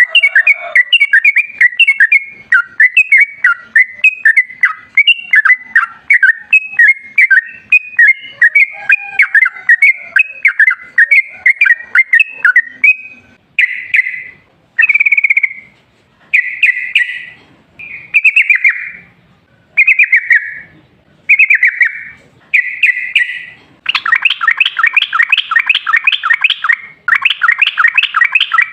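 Yellow-vented bulbul (trucukan) singing. It starts with a dense, rapid bubbling chatter, breaks into short separate phrases about every second and a half, and near the end runs into long, unbroken rapid trills: the long 'ropel' song.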